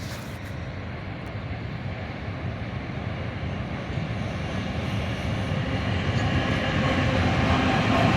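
2TE25Km twin-section diesel freight locomotive approaching, its engine drone growing steadily louder.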